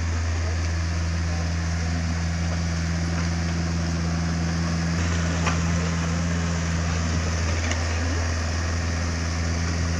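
Takeuchi TB150 mini excavator's diesel engine running at a steady speed, with a few faint clicks over the hum.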